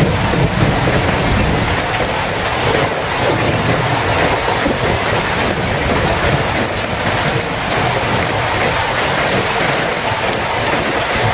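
Steady heavy rain falling on a surface, a dense hiss speckled with drops, with a low rumble underneath that is strongest in the first second or so and then eases.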